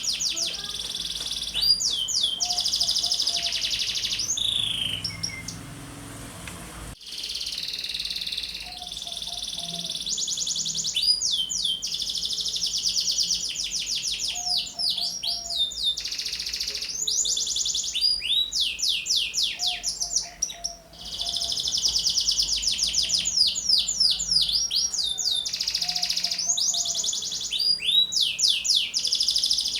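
Domestic canary singing hard: long phrases of rapid trills and sweeping whistled notes, broken by short pauses.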